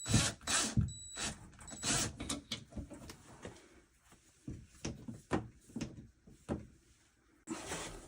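Irregular knocks, clicks and rattles of plumbing tools and parts being handled, several sharp ones in the first three seconds and more spaced ones later.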